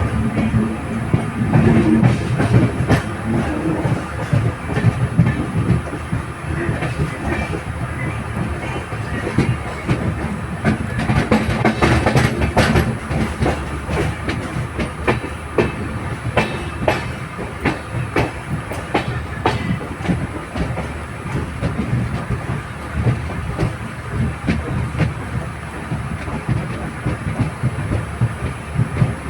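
LHB passenger train running at speed on the rails: a steady rumble with a constant clickety-clack of wheels over rail joints, busiest in the middle.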